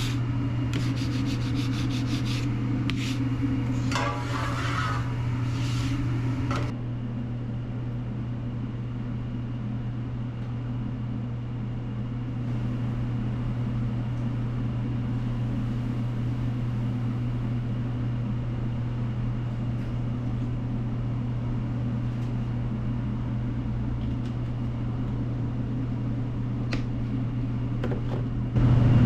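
Rough scraping strokes on a food-truck grill for about the first seven seconds, over a steady low hum; after that the hum carries on alone with a faint hiss.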